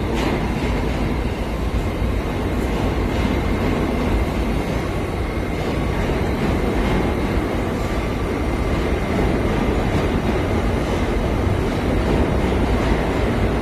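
Kawasaki R68A subway car running steadily, heard from on board: a continuous low rumble of wheels on rail, with a faint steady whine and a few light clicks from the track, growing slightly louder near the end.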